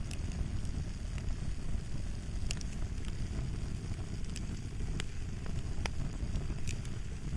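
Fire crackling: a steady low rumble of burning wood with sharp pops and snaps scattered about once a second.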